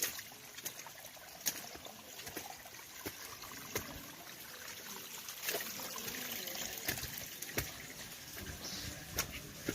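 Water trickling steadily, with scattered sharp clicks and drips.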